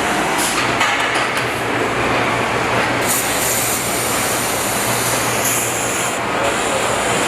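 Steady machinery noise with a low hum. A high hiss joins about three seconds in and breaks off briefly near the end.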